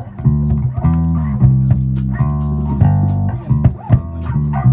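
Live band music: a bass guitar playing a busy line of changing notes under plucked guitar.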